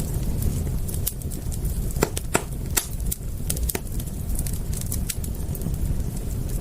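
Wood fire crackling: many irregular sharp pops and snaps, a few louder ones, over a steady low rumble of the flames.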